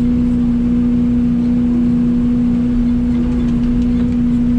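Mini excavator engine running steadily under operation, a constant even hum with no change in pitch or level.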